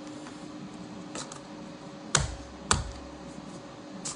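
Kitchen items being put away: a few light clicks and then two sharp knocks about half a second apart, near the middle.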